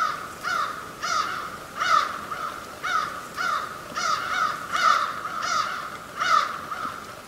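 A bird calling over and over, about two short calls a second, each a brief note that falls in pitch, over a steady high tone.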